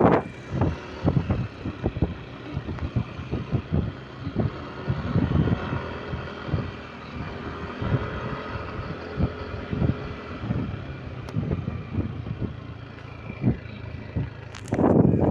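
Motorcycle engine running on the road, with low buffeting rumble throughout and a louder surge near the end.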